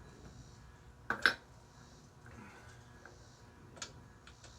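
Two sharp metallic clicks in quick succession about a second in, then a lighter tick near the end: small engine parts and tools being handled and set down on a workbench.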